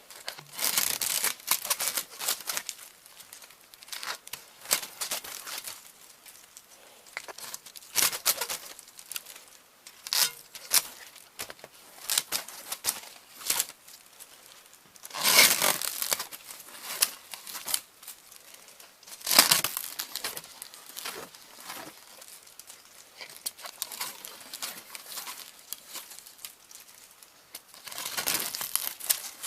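Loose VHS magnetic tape being handled and crumpled by hand, crinkling and rustling in irregular bursts, loudest about halfway through and again a few seconds later.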